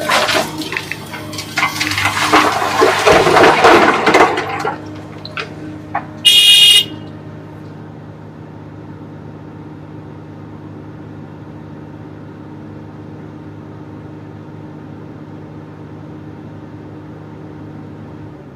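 Komatsu PC350LC excavator working: a loud rushing crash of material for the first few seconds, a single short horn blast about six seconds in, then the diesel engine running steadily.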